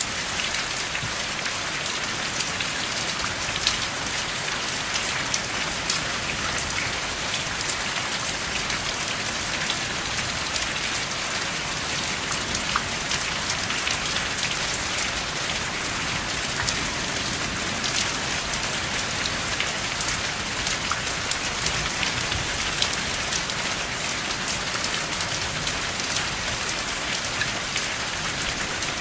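Steady rain falling, with many small drop ticks over an even hiss and no thunder.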